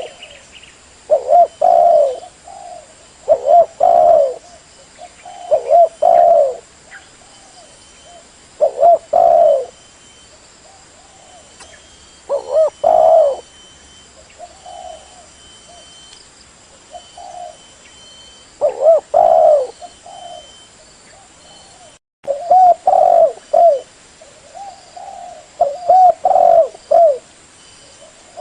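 Spotted dove (tekukur) cooing: short phrases of two to four soft coos, repeated every couple of seconds, with one brief cut-out in the sound about two-thirds of the way through.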